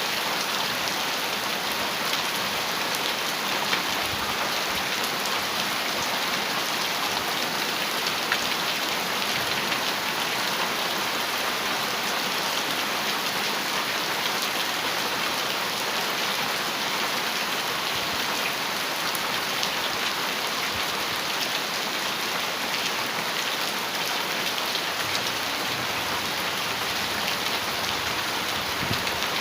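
Heavy rain falling steadily on a metal roof: a dense, even patter with a few sharper drop hits standing out.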